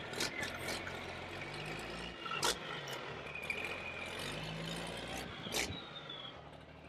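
Plastic toy truck being moved and handled: sharp clicks and knocks over a steady low hum, the loudest knocks about two and a half seconds in and again about five and a half seconds in.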